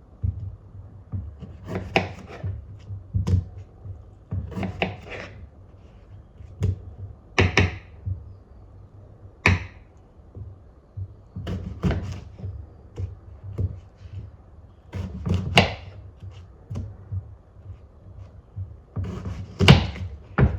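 Objects handled on a hard, wooden-sounding surface: irregular knocks and scrapes a second or two apart, some with a brief brighter rustle.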